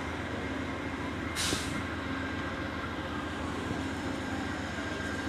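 VIA Rail passenger train rolling slowly past the platform: a steady low rumble of wheels on rails, with a short hiss of air about one and a half seconds in.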